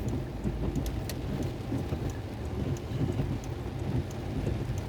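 Rain falling, with scattered sharp drop ticks over a steady low rumble.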